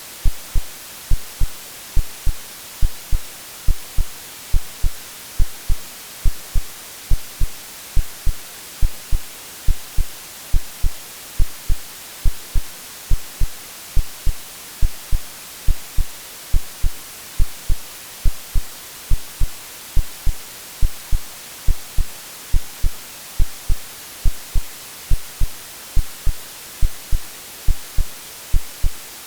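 Continuous white-noise hiss with a steady heartbeat under it, low lub-dub thumps in pairs at a regular resting pace, roughly one beat a second. Both are AI-generated, made to imitate the sounds a baby hears in the womb.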